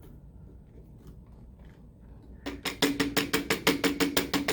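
A few faint clicks as the Hoover Wind Tunnel 2 Rewind's dust bin is released. About two and a half seconds in, a fast rattle of plastic knocks begins, about eight a second, as the bin is shaken to loosen dog hair held in it by static.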